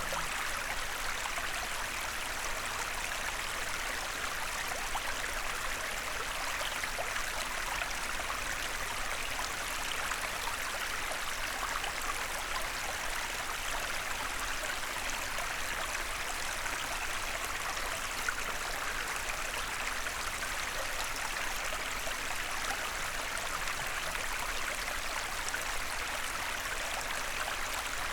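Small forest stream running over stones: a steady rushing and babbling of water, even in level throughout.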